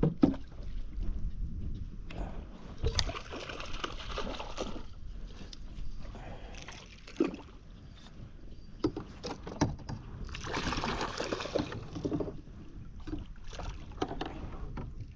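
Water splashing and sloshing around a kayak, with scattered knocks and clicks on the hull, as a hooked speckled trout is brought in alongside. Two longer spells of splashing come about three seconds in and again around ten seconds in.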